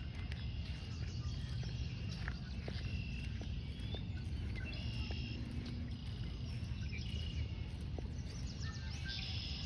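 Outdoor ambience: a steady low wind rumble, with short high-pitched bird calls now and then and a few faint ticks.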